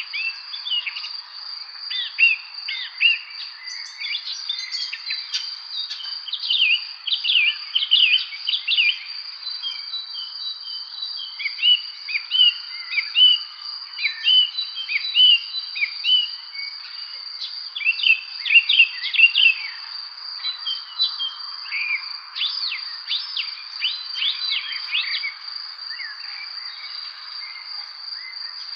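Several songbirds chirping and singing in quick, overlapping phrases over a steady, high-pitched insect trill, like crickets.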